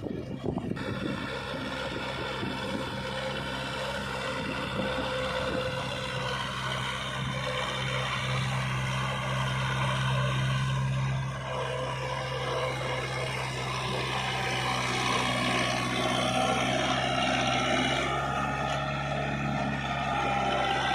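Kubota tractor's diesel engine running steadily, with a brief dip about eleven seconds in.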